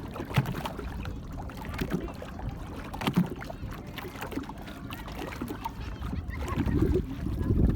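Ride in a small boat: water sloshing and slapping against the hull over a steady low rumble, with scattered knocks. A louder rush of wind or spray builds near the end.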